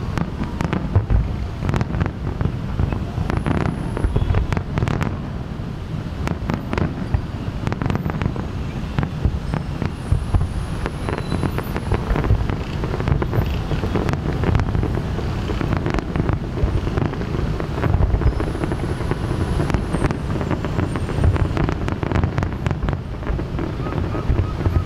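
Fireworks display with many shells bursting in close succession, the bangs and booms running together into a continuous rumble.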